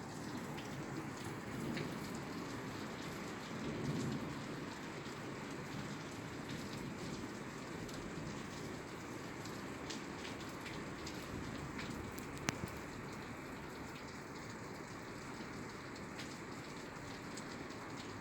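Steady rain falling on a roof, an even patter with scattered individual drop ticks. A low rumble swells about four seconds in, and a single sharp tap sounds about twelve seconds in.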